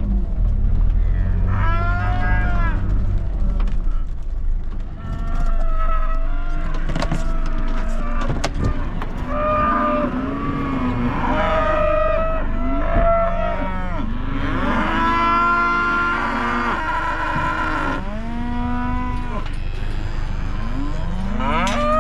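Cattle mooing again and again, several long calls overlapping one another.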